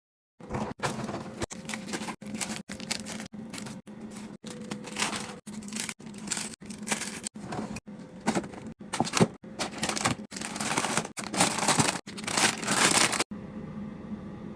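A fast-cut run of short handling sounds: packaging and food containers rustling, crinkling and clattering as a fridge is stocked and organized, over a steady low hum. The sounds start about half a second in, chopped every half second or so by abrupt cuts. They stop shortly before the end, leaving the hum alone.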